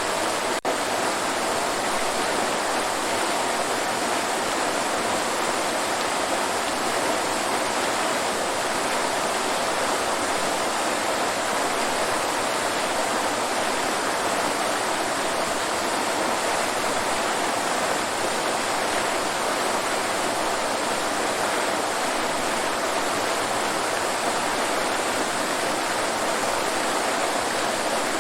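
Waterfall rushing in a steady, even wash of falling water, with a brief dropout about half a second in.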